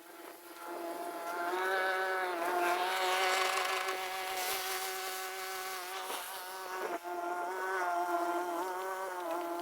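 A small motor running at a steady, high-pitched whine that wavers slightly, with a rush of noise added for a couple of seconds near the middle.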